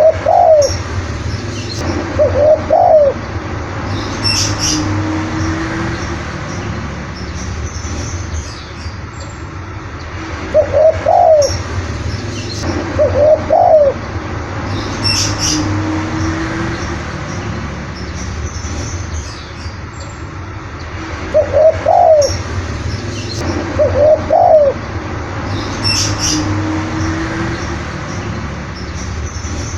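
Spotted dove cooing its song phrase three times, about eleven seconds apart, each phrase a pair of quick coos followed by a lower drawn-out note. Brief high chirps of another bird come between the phrases.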